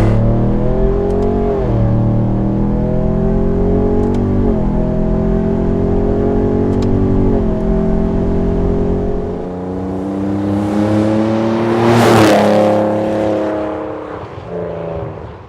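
Ford Raptor's twin-turbo EcoBoost V6 through a Borla aftermarket exhaust, accelerating and upshifting three times, its pitch climbing and then dropping at each shift. The truck then passes close by about twelve seconds in, with a swell of tyre and wind noise, and fades away.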